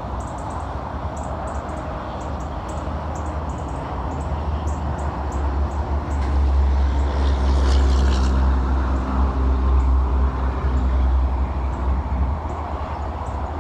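A motor vehicle passing close by: a steady low engine rumble that swells about six seconds in and eases off again near the end.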